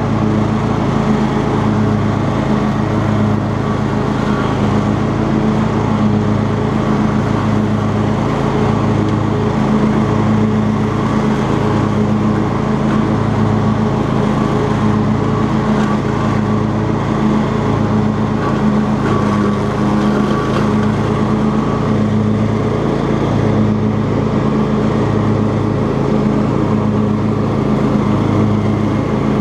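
Cub Cadet XT2 lawn tractor engine running steadily under load with its 42-inch mowing deck engaged.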